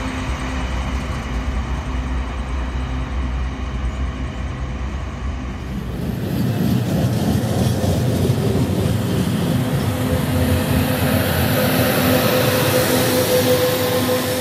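Union Pacific train running past: a steady low rumble, then from about six seconds in a louder rolling rail noise with a steady tone that grows toward the end.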